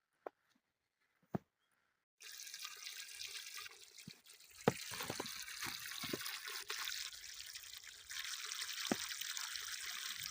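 A few faint clicks, then about two seconds in running water starts: a steady trickle with scattered drips and splashes.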